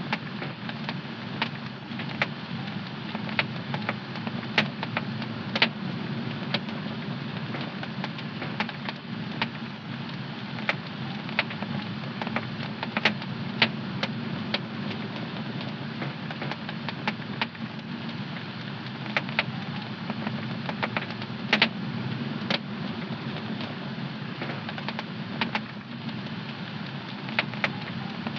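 Wood fire crackling in a home fireplace: a steady low rumble of the flames with frequent sharp, irregular pops and snaps.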